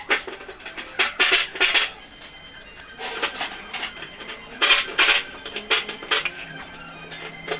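Metal objects clinking and clattering in two bursts, about a second in and again near the middle, with scattered smaller clicks between.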